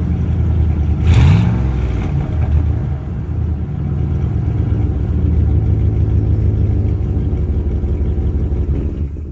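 Dodge Ram 1500's 5.2-litre (318) V8 exhaust through a Thrush Turbo muffler: a quick rev of the throttle about a second in, then steady idling.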